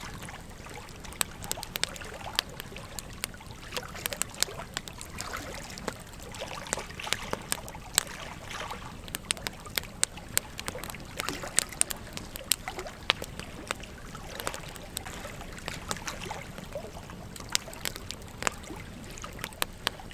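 Wood campfire crackling and popping in irregular sharp snaps over the steady rush of a small stream.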